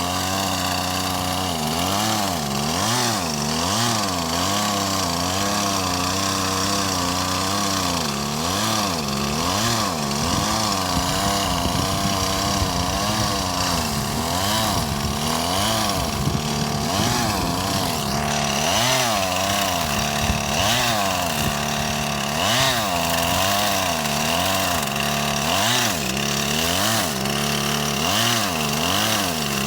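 Gas chainsaw running under load while cutting a tree, its engine speed rising and falling about once a second. The saw is barely working.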